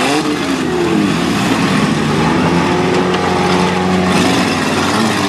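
Several demolition-derby small-car engines revving at once over one another, their pitches rising and falling as the cars accelerate and back off.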